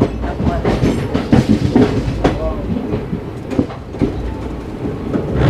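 Passenger coach of an express train running along the track, its wheels clattering and knocking irregularly over rail joints over a steady rumble, with faint voices in the background.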